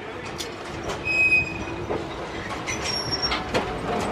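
Wheels of a passenger train squealing on the rails in two short high-pitched squeals, over the rumble and scattered clicks and knocks of the coaches running on the track.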